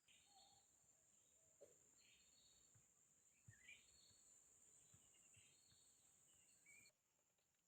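Near silence: faint forest ambience with a few soft bird chirps and a steady high insect drone that cuts off near the end.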